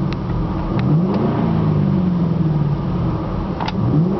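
A 2006 Ford Mustang GT's 4.6-litre V8 being revved: the engine note climbs sharply about a second in, eases back down, and climbs again near the end.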